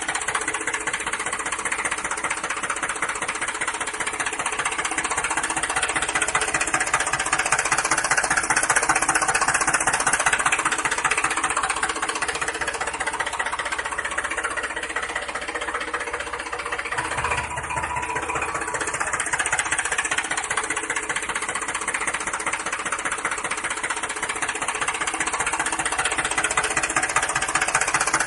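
Small engine of a DIY mini tractor running steadily with a fast, knocking rhythm.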